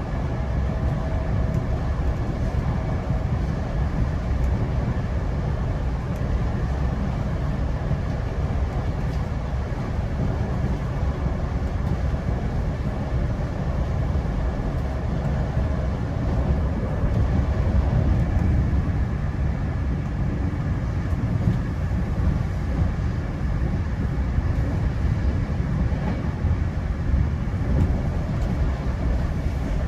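GO Transit commuter train running along the track: a steady low rumble of wheels and rail, with a faint steady whine above it.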